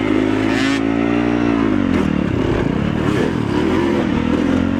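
Motorcycle engine revving up, holding its higher note for about a second and a half, then dropping back about two seconds in and running on steadily.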